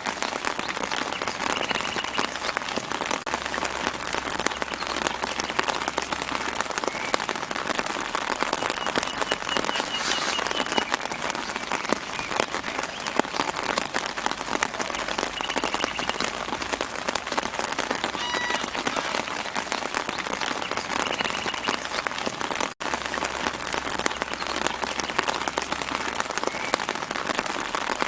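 Steady light rain pattering on leaves, made of dense fine drop ticks, with faint short bird chirps in the background every several seconds. The sound cuts out for an instant about 23 seconds in.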